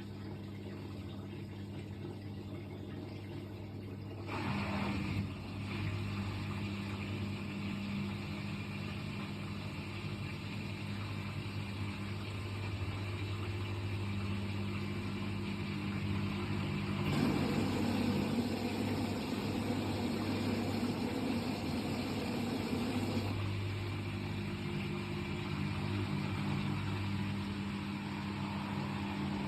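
Washing machine running with a steady motor hum under the noise of its drum. The machine is shaking badly. The noise picks up about four seconds in and gets louder for several seconds after the middle.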